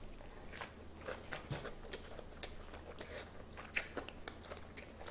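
A person chewing a large mouthful of leaf-wrapped rice (ssam) close to the microphone: irregular wet mouth clicks and soft crunches, with a few sharper clicks.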